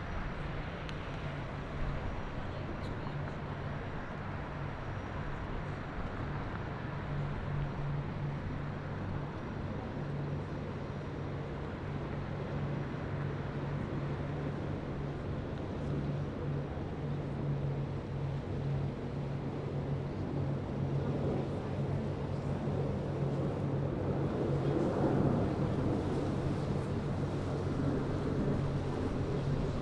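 Steady low engine drone over a wash of background noise, typical of a tour boat running on the river; it grows a little louder and busier near the end.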